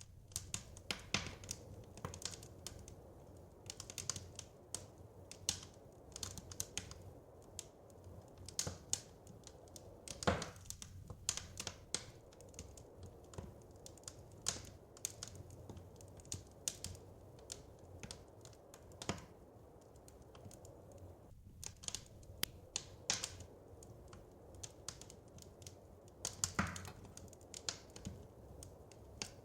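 Wood fire crackling: irregular snaps and pops, a few of them louder, about 10, 19 and 27 seconds in, over a low steady rumble.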